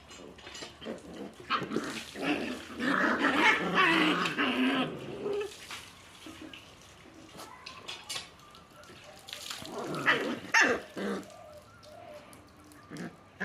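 Puppies fighting, with growls, yips and short barks. The loudest, busiest tussle comes in the first five seconds, followed by a few sharp outbursts about ten seconds in.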